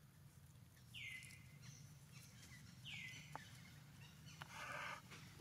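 Faint outdoor ambience in which a bird repeats a short call that drops in pitch and then holds briefly, three times about two seconds apart. A brief scratchy rustle comes shortly before the last call.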